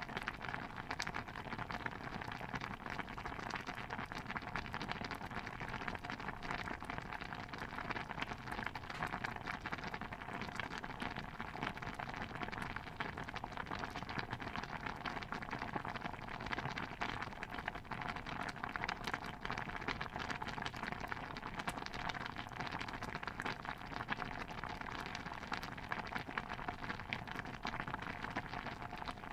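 Steady, dense patter of tiny pops and crackles from a layered kitchen ambience mix, with no single sound standing out.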